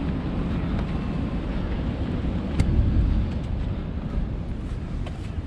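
Wind rumbling on the action camera's microphone over the wash of surf, with a few faint clicks and a short swell in level about two and a half seconds in.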